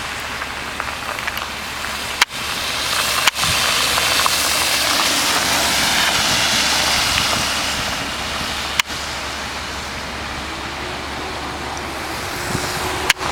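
Street traffic: a steady noise of cars going by that swells as a vehicle passes about halfway through. It is broken by a few sharp clicks.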